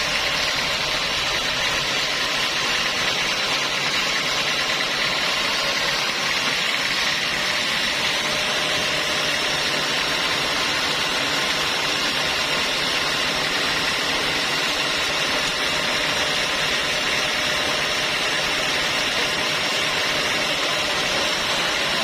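Sawmill running steadily, an even, unchanging machine noise with a high hiss.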